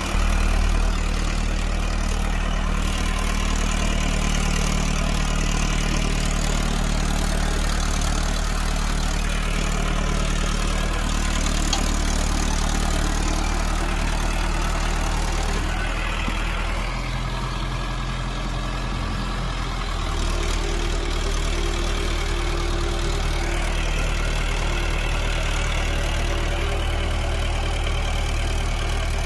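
Mahindra Arjun 555 tractor's diesel engine running steadily while pulling a 16-disc harrow, with a brief change in engine note and slight drop in level about two-thirds of the way through.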